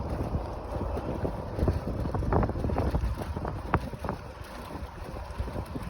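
Wind buffeting the microphone while riding a bicycle, a steady low rumble, with a few short knocks about halfway through.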